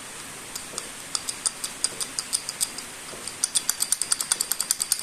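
Rapid light metallic ticking, several sharp clicks a second, faint at first and louder after about three seconds. It illustrates knock from play between the piston and its wrist pin, or between the connecting rod and the pin, a fault put down to overheating or long wear.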